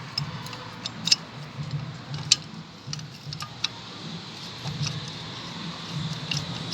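Irregular sharp metallic clinks and taps of hand tools and engine parts as a new timing chain tensioner is fitted, the two loudest about a second and two seconds in.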